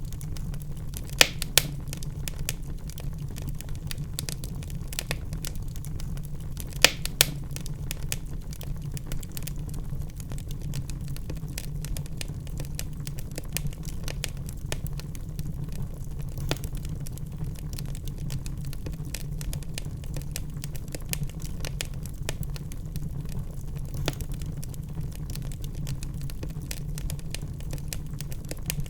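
Wood fire crackling and popping in a fireplace over a steady low rumble, with a few louder pops, two about a second in and two around seven seconds in.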